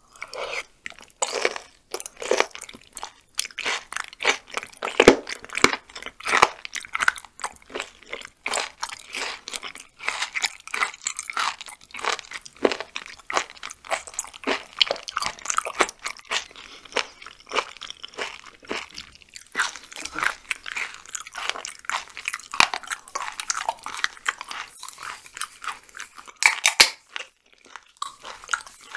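Close-up chewing of raw chicken gizzard: dense, crunchy mouth clicks and crunches, many a second, with a short pause near the end.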